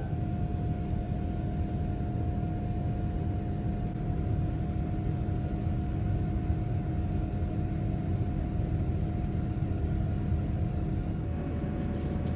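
Steady low rumble of a Boeing 787-9 cabin from the inside, with a couple of faint steady hums over it.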